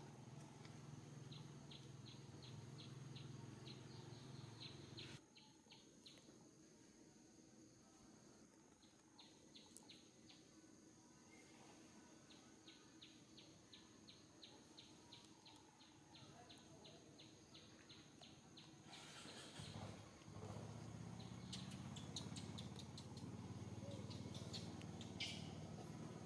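Faint outdoor ambience with runs of short, high chirps repeating evenly at about four a second, over a steady high whine.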